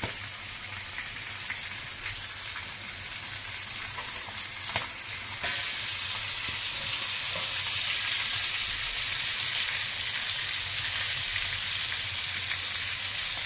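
Stuffed squid coated in semolina and breadcrumbs shallow-frying in a little oil on a flat iron tava: a steady sizzle, with a few sharp clicks about four to five seconds in. The sizzle grows louder about halfway through.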